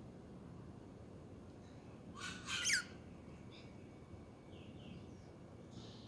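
Budgerigar chirping: a short burst of sharp calls with quick falling notes a little over two seconds in, followed by a few faint soft chirps.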